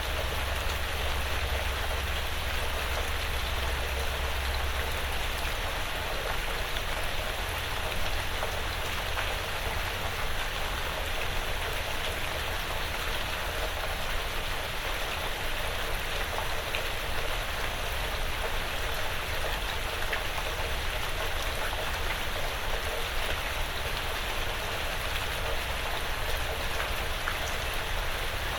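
Light rain falling on a porch roof and the surrounding woods: a steady hiss with scattered small drop ticks. A low rumble underneath fades after about five seconds.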